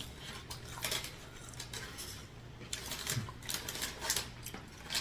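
Eating sounds close to the microphone: an irregular run of short clicks and crackles from chewing and handling fast food.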